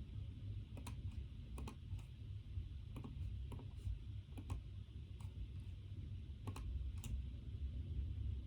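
Computer keyboard typed on slowly and unevenly, a dozen or so separate key clicks with irregular pauses, over a steady low room hum.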